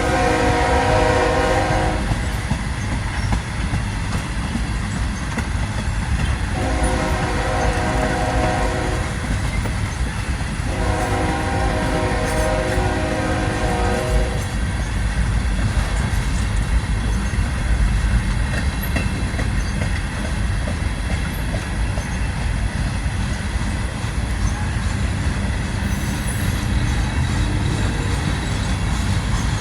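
CSX ET44AH locomotive's Nathan K5HL five-chime horn sounding three blasts in the first fourteen seconds, the last two about three seconds long each. Under and after the horn is the steady low rumble of a slow freight train of tank cars rolling past.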